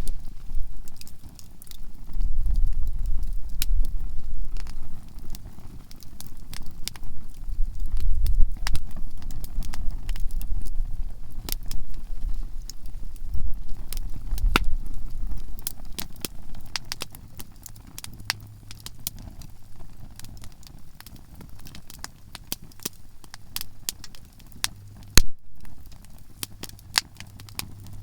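Conifer firewood burning in a campfire, crackling with frequent sharp pops throughout. A low rumble lies under the crackle for the first half and fades out about two-thirds of the way through.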